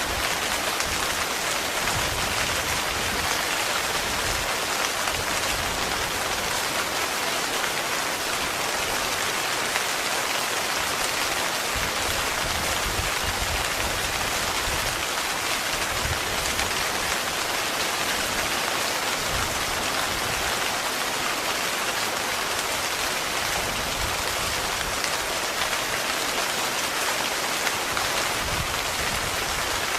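Heavy, steady rain falling on a tent's fabric: a dense, even hiss with irregular soft low thuds from the drops hitting the canvas.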